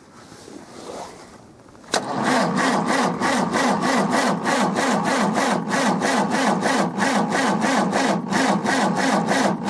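International B-275 tractor's four-cylinder diesel being cranked over by its starter motor in the cold, an even beat of compression strokes starting with a click about two seconds in, without firing. The old battery is weak, with not much power to turn the engine.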